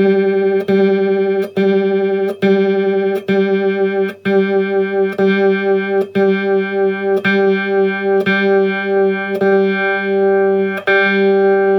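Electric guitar (a Patrick Eggle Berlin) played through a Danelectro Cool Cat Vibe pedal into an Epiphone Valve Junior valve amp: one note plucked about once a second, with the vibe pedal set to a very slow speed and its intensity turned up, giving a slow pulsing wobble.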